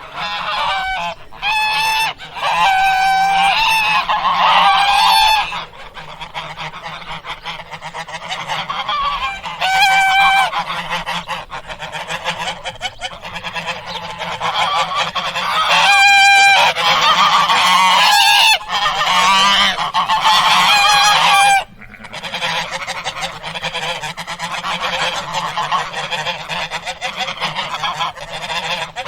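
Waterfowl calling: a flock of many overlapping calls, with clear-pitched calls standing out repeatedly. The calls are loudest from about a quarter to two-thirds of the way through.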